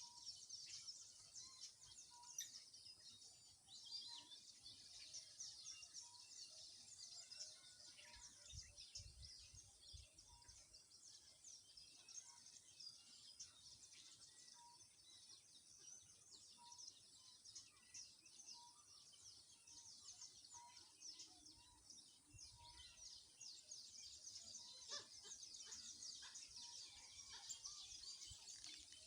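Faint chorus of wild birds: a dense, continuous wash of high chirps, with one bird repeating a short, lower note about once a second until near the end. A few faint low thumps come in about a third of the way through and again later.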